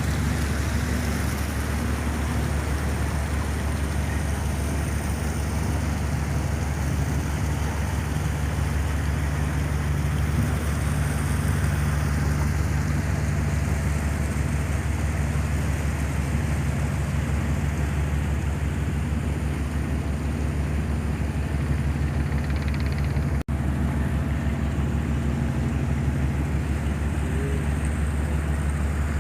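Engine of a river passenger motor boat running steadily under way, a low drone mixed with the rush of wind and water past the hull. The sound cuts out for an instant about three-quarters of the way through.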